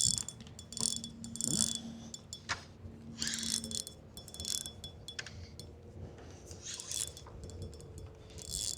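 Spinning fishing reel ticking and rattling in short irregular spurts while a hooked fish, taken for a jack crevalle, is fought on light tackle. A faint low hum runs under the first few seconds.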